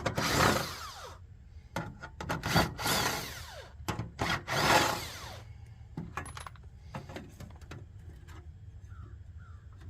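Cordless drill backing the screws out of the heater's sheet-metal side cover in three short runs, each winding down in pitch, with sharp clicks and small metal clatter between them. After that, only light handling noises.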